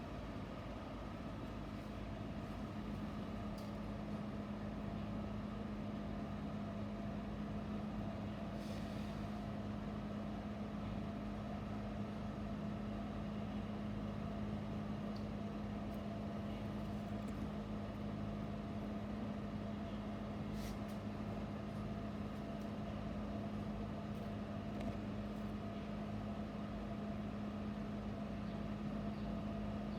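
Steady mechanical hum with a strong low tone, unchanging throughout, with a few faint ticks.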